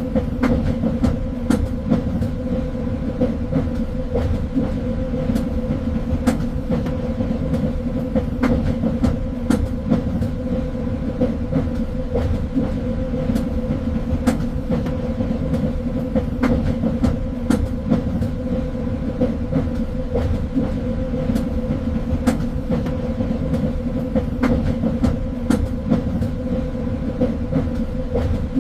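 A train running along the track: a steady low rumble from the wheels on the rails, with a constant hum and frequent irregular clicks and knocks.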